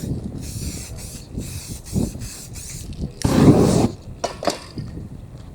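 Aerosol spray paint can hissing in short bursts, the loudest lasting under a second about three seconds in, with scattered clicks and knocks of handling between them.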